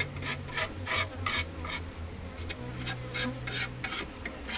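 Repeated rasping scrapes, about four a second, of a metal hive tool scraping wax and propolis off the wooden parts of a beehive.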